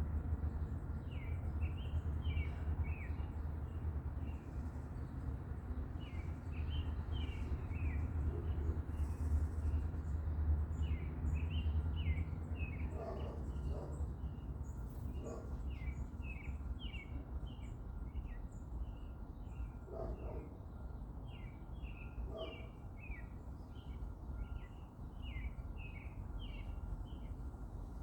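Small garden birds chirping, a steady run of short high notes repeated throughout, over a low steady background rumble that eases after about twelve seconds.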